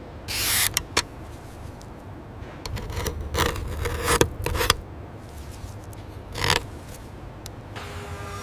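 A series of short scrapes and sharp clicks, like tools or metal parts being handled, with a busier run of scrapes in the middle and another about six and a half seconds in.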